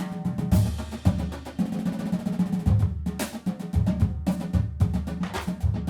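Background music: a drum-heavy track with strong, repeated drum hits over a sustained low bass.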